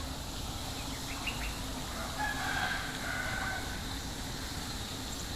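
A rooster crowing once, a single held call of about a second and a half starting about two seconds in, with a few short bird chirps just before it.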